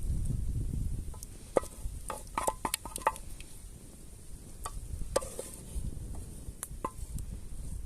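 Spoon stirring a pot of stew over a campfire, with scattered clinks and knocks against the pot over a steady high hiss.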